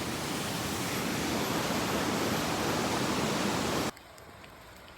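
Steady rush of falling water from a waterfall, an even hiss that cuts off abruptly about four seconds in.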